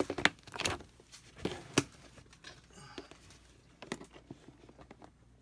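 A string of sharp clicks and light knocks, bunched in the first two seconds and sparser after, as reptile keeping containers are handled and moved about.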